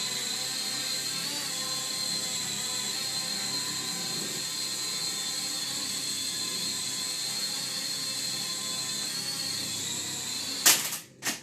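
Small quadcopter drone's motors and propellers whining steadily in flight. Near the end come two sharp knocks and the whine cuts off suddenly, as the drone strikes something and its motors stop.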